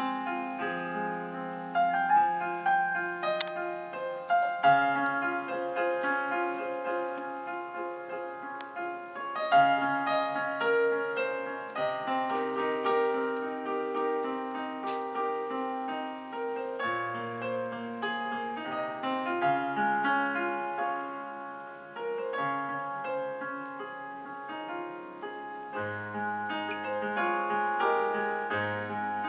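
Keyboard in a piano voice playing a slow instrumental passage: chords under a melody, the notes held and overlapping, with a few deeper bass notes coming in now and then.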